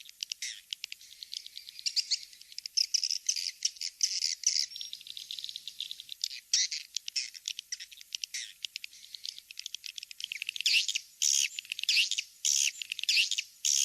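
Recorded edible-nest swiftlet calls, a lure sound played to draw swiftlets to a nesting house. Dense, rapid, high twittering chirps and clicks in quick runs with short pauses.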